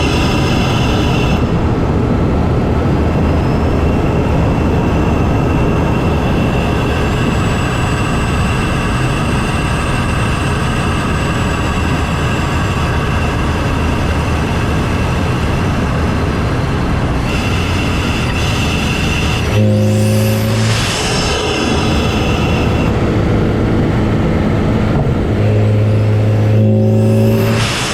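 MK7 Golf GTI's turbocharged 2.0-litre four-cylinder heard from the engine bay through an open CTS cold-air intake while driving: steady engine and intake noise, with a faint high whistle for several seconds. The pitch sweeps upward as the engine revs about twenty seconds in and again near the end.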